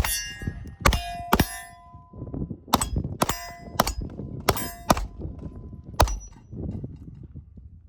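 Silencer Co. Maxim 9 integrally suppressed 9mm pistol firing about nine shots at steel targets, irregularly spaced over about six seconds. The steel plates ring with a clang after the hits.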